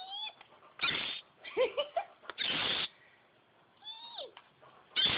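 Baby bird calling in agitation: short whistled calls that glide in pitch, alternating with three loud, harsh, hissy bursts.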